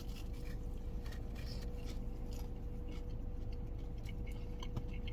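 Faint scattered clicks and crackles of someone quietly eating and handling crispy fried chicken wings, over a steady low hum with a faint steady tone.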